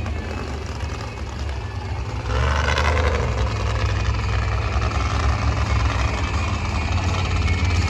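Monster truck engine running loud, then revving up hard about two seconds in and holding at the higher level.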